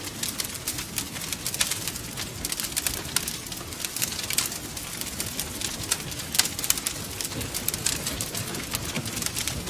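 Wood fire crackling and popping in a fireplace: dense, irregular sharp snaps over a low steady rumble of burning.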